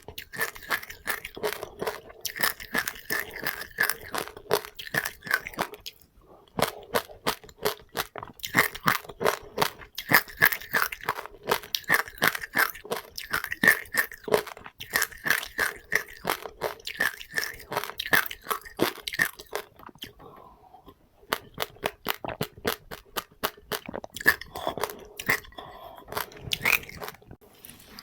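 Close-up chewing of crunchy seeds: rapid crackling crunches, several a second, with two short pauses.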